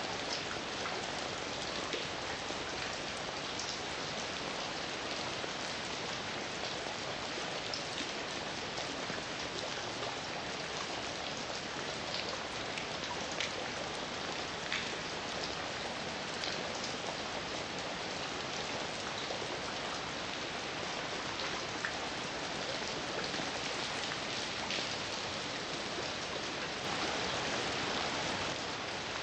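Heavy rain falling steadily, with individual drops ticking on a surface. It swells a little about 26 seconds in.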